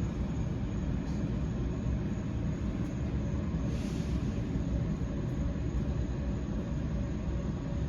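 Distant fireworks show heard without its music: the bursts run together into a continuous, loud low rumble.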